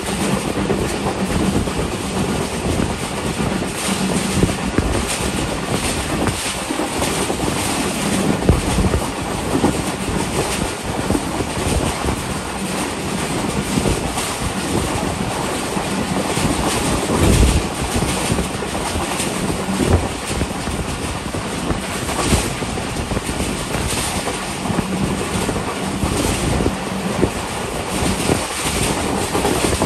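Passenger train running at speed on the track: a steady rush of wheel and rail noise with irregular clacks, and a heavier thump about halfway through.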